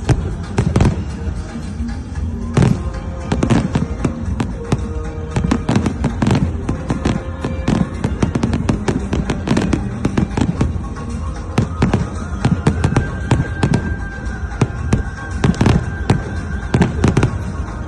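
Fireworks going off in quick succession, a dense run of sharp bangs and cracks at irregular intervals, some close together.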